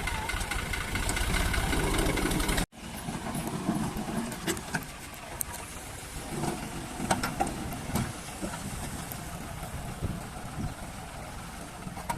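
Tractor engine running loud and steady, cut off suddenly a little over two and a half seconds in. A quieter, lower engine sound follows with scattered sharp clicks.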